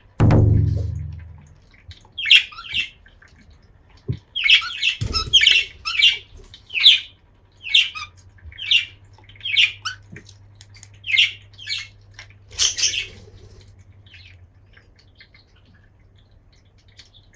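Budgerigar giving short squawking calls one after another, about one a second for some ten seconds: the puppy-like calls it makes when it is happy. A loud low thud opens the sound.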